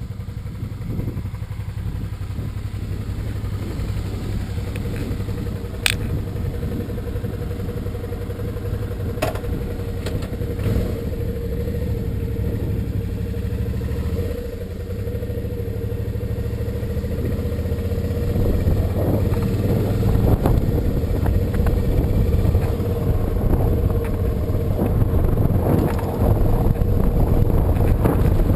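Motorcycle engine running steadily under way, getting louder about two-thirds of the way through, with a sharp click about six seconds in.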